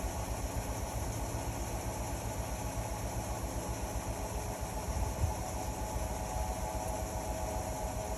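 Indesit Innex XWA 81252 washing machine running steadily: a constant motor hum over a low, vibrating rumble, with no pause or change.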